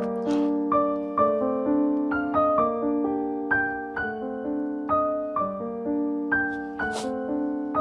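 Background music: a piano playing a gentle melody of struck notes.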